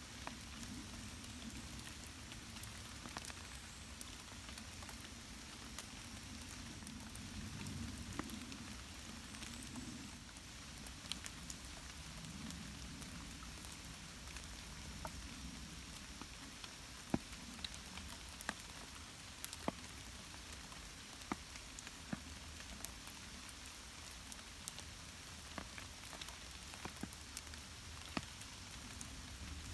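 Light rain falling: a steady soft hiss with single drops ticking sharply and irregularly close by, more often in the second half.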